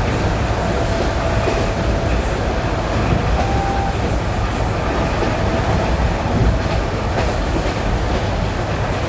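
ED9E electric multiple unit running along jointed track: a steady rumble of wheels and running gear, with occasional clacks as the wheels pass over rail joints. It is heard from inside the carriage.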